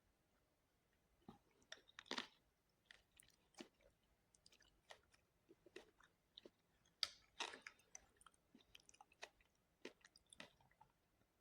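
Close-miked eating: quiet chewing and biting with irregular short crunches and mouth clicks, the loudest about two seconds in and around seven seconds in.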